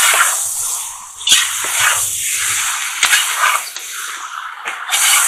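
Chopped onion and carrot sizzling in hot oil in a cast-iron kazan, the hiss swelling several times as a metal slotted skimmer turns them over, with a few short scrapes and knocks of the skimmer against the pot.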